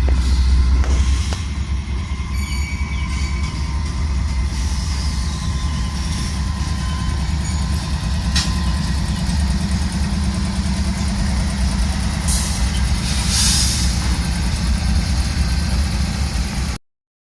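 Steady, loud low rumble of a moving vehicle that cuts off abruptly near the end.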